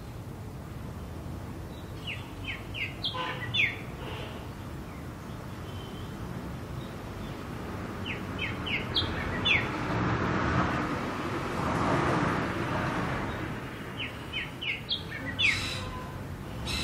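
Backyard ambience: a bird gives three bouts of quick chirps, about six seconds apart, over a steady low rumble of distant traffic. Midway the traffic noise swells and fades.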